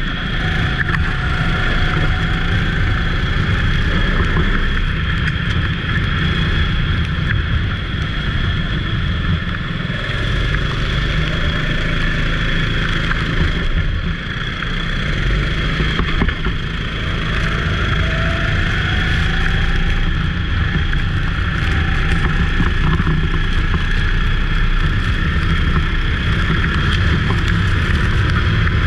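Racing go-kart engine running steadily at speed, with a continuous low rumble and a brief rising whine about two-thirds of the way through.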